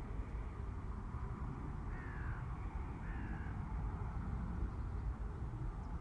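A bird gives two short calls about a second apart, each falling in pitch, over a steady low background rumble.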